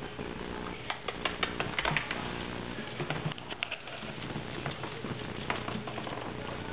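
Small puppies' paws scrabbling and scuffling as they play, with irregular sharp clicks, a few of them louder, over a faint steady hum.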